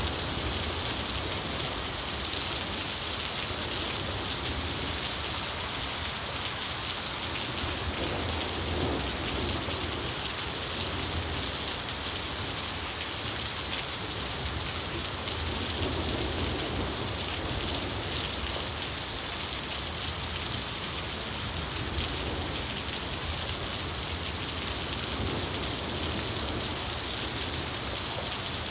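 Steady rain falling, a dense hiss of drops, with low rumbling swells now and then.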